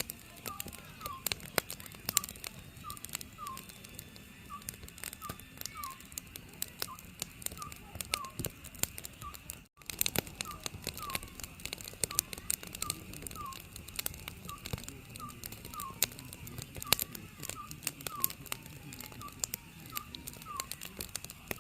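Oriental scops owl calling: a steady run of short, slightly falling hoots. Under it, a wood fire crackles with sharp pops throughout.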